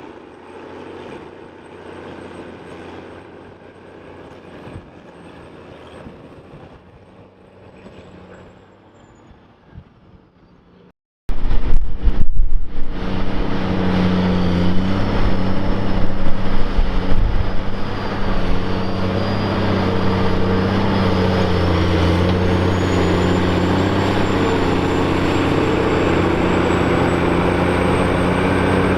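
New Holland 6090 tractor's diesel engine running while pulling a scraper, heard faintly at first. About eleven seconds in there is a sudden jump to a loud, close engine drone that varies for a few seconds before settling steady.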